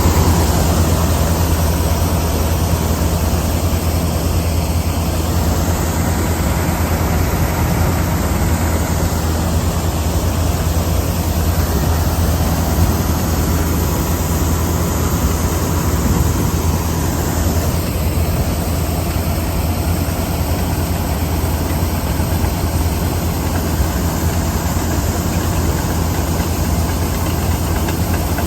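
Heavy diesel engine running steadily, with a deep even hum.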